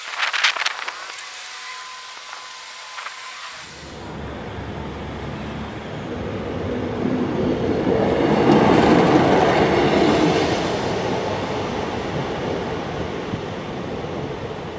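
Class 153 single-car diesel multiple unit passing over a level crossing: a rumble that grows from a few seconds in, is loudest around the middle, then slowly fades. A brief sharp sound comes right at the start.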